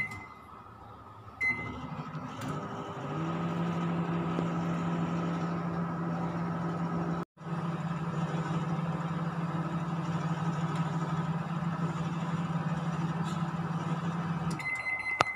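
Microwave oven: two short keypad beeps as it is set, then its steady hum as it runs. The hum stops shortly before the end, followed by another beep.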